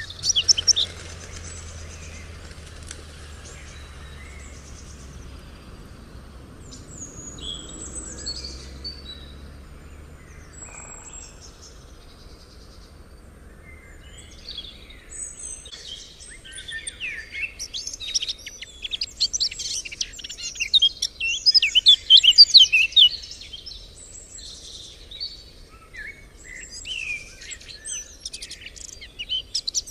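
Several birds singing and calling, with scattered chirps and short song phrases that build into a loud run of rapid chirping about two thirds of the way through.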